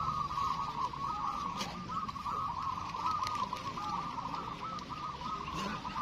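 A chorus of many zebra doves cooing at once, their overlapping rolling coos running on without a break.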